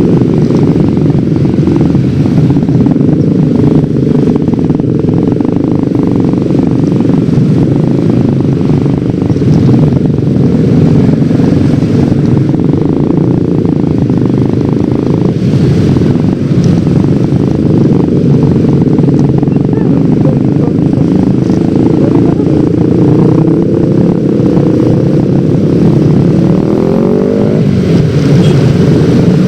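Yamaha X-Ride 113cc single-cylinder automatic scooter underway, its engine and riding noise running steadily and loud. Near the end a pitch glides sharply upward.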